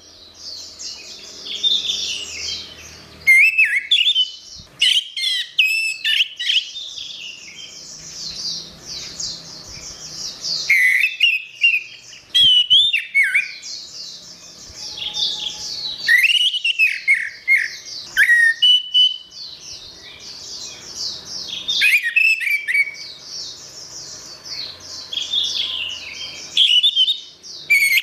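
Orange-headed thrush singing: long phrases of rapid, varied high notes with short pauses between them.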